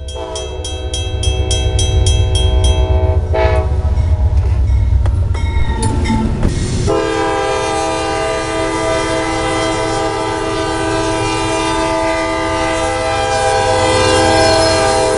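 Diesel train locomotives passing a grade crossing with a heavy low engine rumble. Crossing bells ring rapidly for the first three seconds. The air horn gives short blasts and then one long held blast from about seven seconds in.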